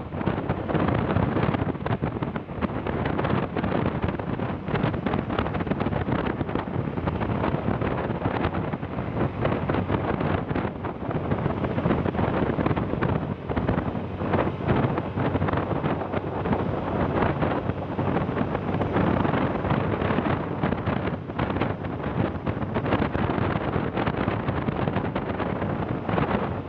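Wind rushing and buffeting over the microphone while travelling along a road, with a vehicle's engine running underneath.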